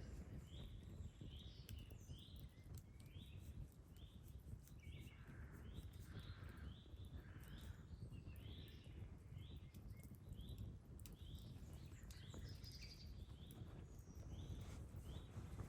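Faint outdoor ambience: birds chirping repeatedly in short falling notes, roughly one or two a second, over a low steady rumble, with a few faint campfire crackles.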